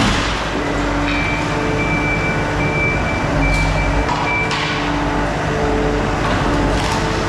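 Skid steer engine running steadily under work. A high reversing alarm beeps about once a second for a few seconds, starting about a second in.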